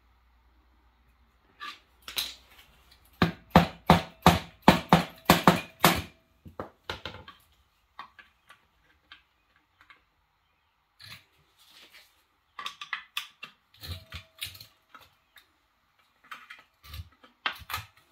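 Rapid metal-on-metal knocks and clinks, about four or five a second for some three seconds, starting about three seconds in, then scattered taps and clatters: a larger tool being worked against a seized Honda engine's casing to pry it apart.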